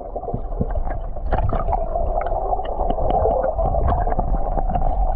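Sound heard underwater while swimming: a steady muffled water noise with many small clicks and pops scattered through it.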